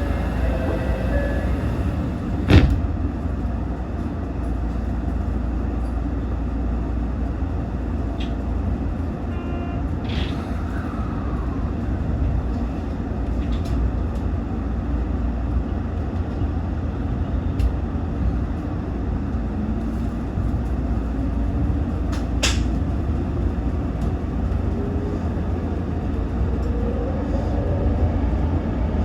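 Tōyō Rapid Railway 2000 series electric train with a steady low rumble, a sharp knock a few seconds in, then pulling away from a station: a motor whine rises steadily in pitch over the last ten seconds as it accelerates.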